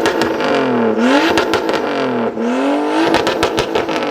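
Car engine revving hard and repeatedly, its pitch climbing and dropping several times, with bursts of sharp popping cracks from the exhaust about a second and a half in and again near the end.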